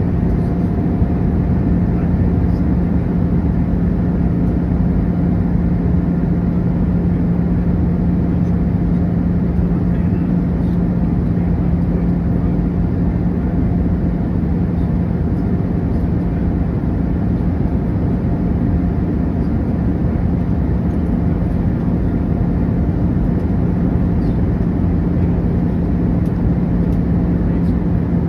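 Steady cabin drone inside an Airbus A319 in flight: engine and airflow noise with a constant low hum and a faint higher tone, unchanging throughout.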